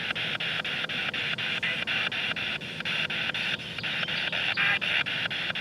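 Spirit box, a radio scanning rapidly through stations, giving a steady hiss of static chopped by sweep clicks about seven times a second, with brief snatches of pitched radio sound.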